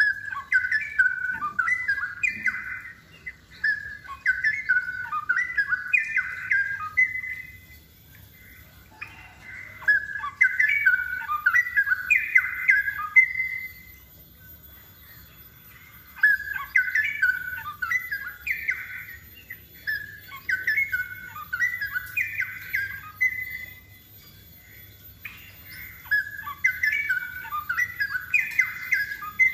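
Straw-headed bulbul (cucak rowo) singing rapid runs of rising and falling notes. It sings in four bouts of several phrases each, with pauses of about two seconds between them.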